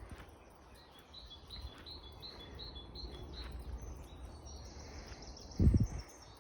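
Woodland songbirds singing: one bird repeats a short high note about three times a second for a couple of seconds, then a higher, faster trill follows. A loud low thump comes about five and a half seconds in, over a low rumble.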